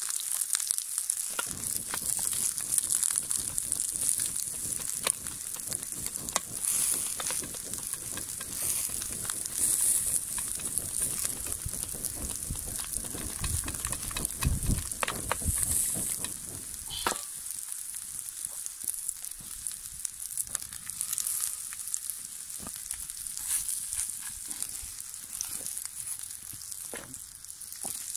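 Slices of sausage, potato, zucchini and tomato sizzling in a cast-iron skillet over an open wood fire: a steady hiss with scattered sharp pops and crackles. A low rumble runs under the first half and fades out a little past halfway.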